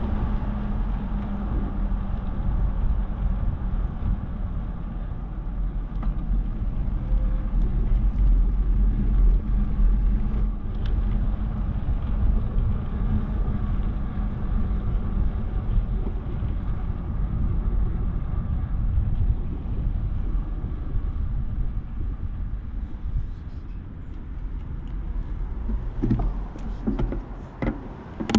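Continuous low rumble of wind buffeting the microphone, mixed with road noise while cycling along a city street. It eases a little near the end, where there are a few faint clicks.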